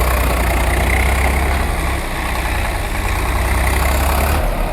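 Tractor engine running steadily at a low idle; its deep rumble dips briefly midway and eases off a little near the end.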